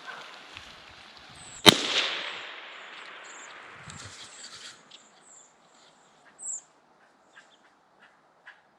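A single rifle shot about two seconds in, its echo fading away over the following second.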